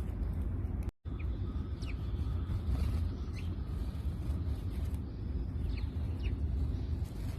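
A few short, scattered chirps from house sparrows over a steady low rumble. The sound cuts out for an instant about a second in.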